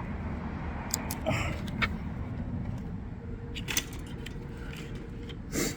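Keys jangling and a few sharp metallic clicks, as a bike is locked up, over a steady low street rumble.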